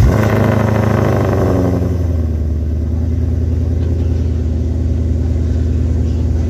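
Supercharged 2017 Ford Mustang GT's 5.0 V8 starting up, heard close to the exhaust tips: it catches suddenly and loudly, the revs flare and fall back over about two seconds, then it settles into a steady idle.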